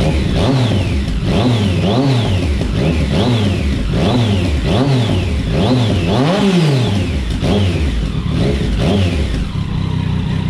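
2019 Yamaha MT-09's three-cylinder engine, breathing through an aftermarket carbon full exhaust system (a copy of an Akrapovič), being blipped over and over. Its pitch shoots up and drops back about once a second, nine or ten times, then it settles to a steady idle near the end.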